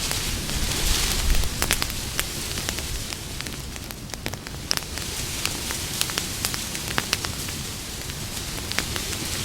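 Campfire burning, wood crackling with frequent irregular sharp pops and snaps over a steady hiss of flame.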